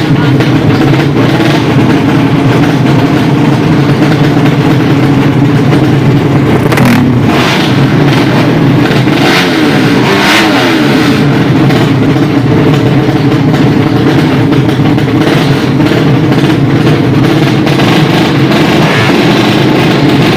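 Loud, steady running of drag-racing motorcycle engines, with the pitch rising and falling as an engine is revved about seven to eleven seconds in.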